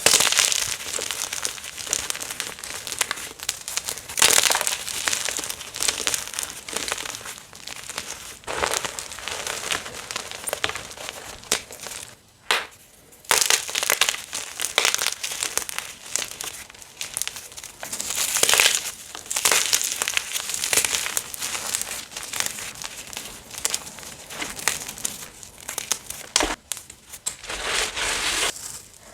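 Blocks and chunks of gym chalk being crushed and crumbled, a continuous dense crunching and crackling with a short break about twelve seconds in.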